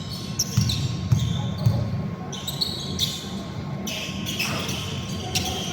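Basketball dribbled on a hardwood court in a large hall, a run of bounces about half a second apart, with short high squeaks and faint voices around it.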